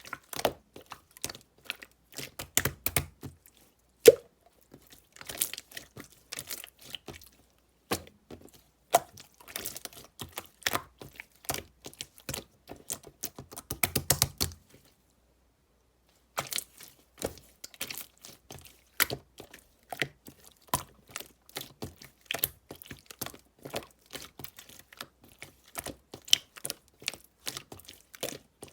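Pink pearl slime being squished and poked by hand: dense, irregular clicks and crackles, with a short pause about halfway through.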